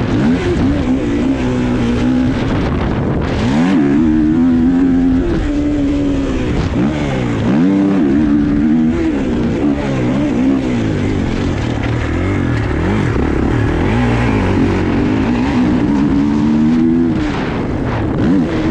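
Dirt bike engine running loud, its pitch repeatedly rising and falling as the throttle is worked up and down.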